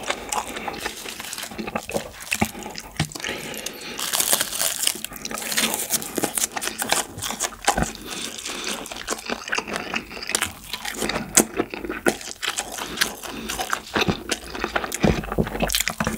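Close-up eating sounds of a person chewing fried sausage and crab-stick patties and kimchi stew: wet chewing and mouth smacks, with many sharp little clicks from chopsticks and bites.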